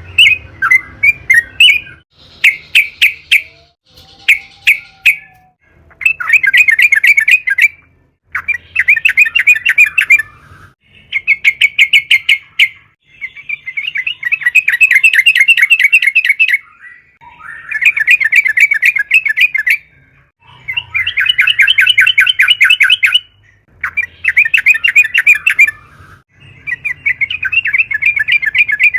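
Yellow-vented bulbul (trucukan) singing at length: quick short note groups at first, then a string of long, rapid, bubbling trilled phrases, each about two seconds, with short pauses between.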